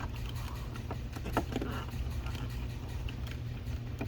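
Light clicks and plastic handling noises as a door wiring connector is worked loose, over a low steady hum.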